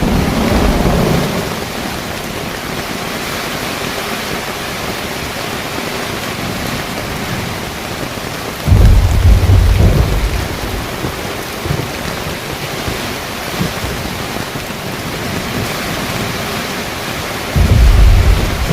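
Heavy rain falling steadily on a car rooftop tent, with low rumbles of thunder: one fading in the first second or so, another breaking in about halfway and lasting about a second and a half, and a third starting near the end.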